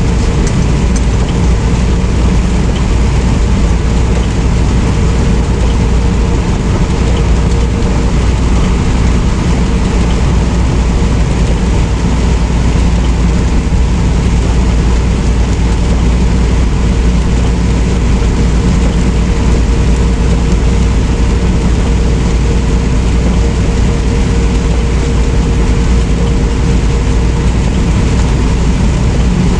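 Semi truck engine and road noise: a steady, loud low rumble that does not change.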